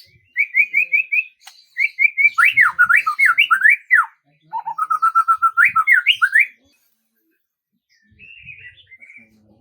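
A songbird singing a varied song of whistled notes: a quick run of repeated notes, then fast notes sweeping up and down, then a run of notes climbing in pitch. A pause follows, and softer chattering comes near the end.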